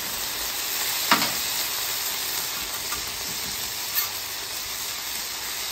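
Diced potatoes sizzling steadily in hot fat on a flat-top griddle as they are stirred and spread with a metal spatula, with two sharp knocks of the spatula on the griddle, about a second in and near four seconds.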